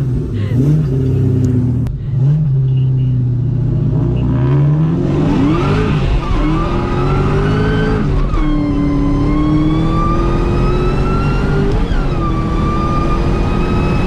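Supercharged SVT Cobra V8 running at a steady low pitch, then from about four seconds in accelerating hard through the gears. Its pitch climbs, drops at upshifts about eight and twelve seconds in, and climbs again, with a high supercharger whine rising along with the engine.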